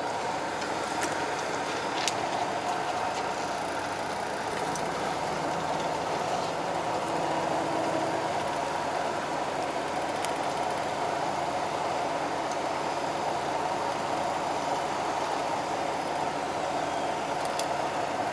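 Fishing boat's engine running steadily, with a few faint clicks over it.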